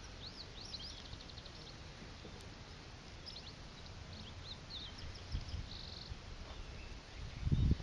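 Small birds chirping in quick clusters of high, curving notes, at the start and again around three to four seconds in, over a steady outdoor background hiss. A few low thumps come near the end.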